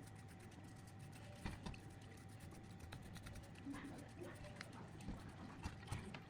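Faint, scattered light taps and clicks, a few louder ones in the second half, over a low steady hum.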